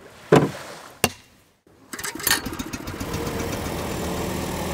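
Two sharp knocks, then after a short pause an engine starts and settles into a steady run.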